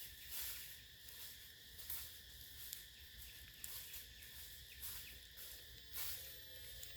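Faint, steady drone of forest insects, with soft rustling or brushing noises every second or two, the loudest about two seconds in and again near six seconds.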